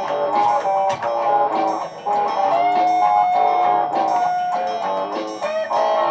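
Layered guitar loops playing, several picked and strummed parts stacked over one another, with one note held and sustained for about two seconds in the middle.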